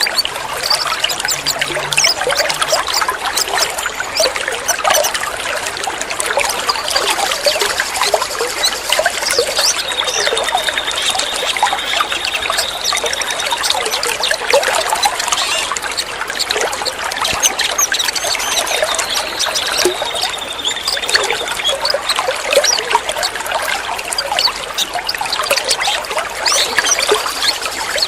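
Water trickling steadily with a dense patter of small splashes. A thin, high, steady tone sounds over it twice, for about four seconds a third of the way in and again briefly past the middle.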